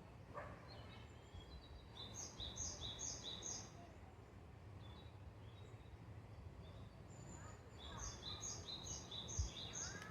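A wild songbird singing two short phrases, each a quick run of about four repeated two-note figures, one high and one lower, over a faint steady outdoor hum. A soft low thump comes near the end.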